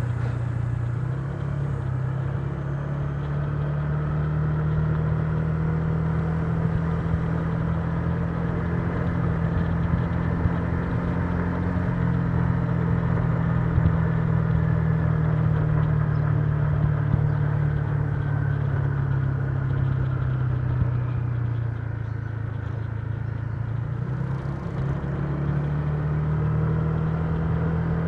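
Honda Giorno 125 scooter's single-cylinder engine running steadily under way. Its pitch rises slightly about two seconds in, dips about twenty-two seconds in, and climbs again a couple of seconds later.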